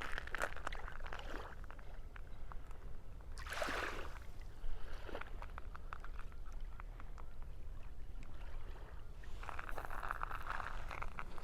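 Small lake waves washing up on a sandy beach, three surges a few seconds apart, with crunching footsteps and wind rumbling on the microphone.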